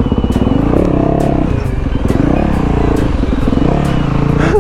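Motorcycle engine revving up and down several times as it is ridden, its pitch rising and falling with the throttle.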